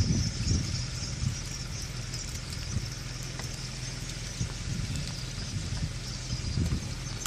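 A car engine idling steadily, heard from inside the car, with a faint high-pitched hiss above it.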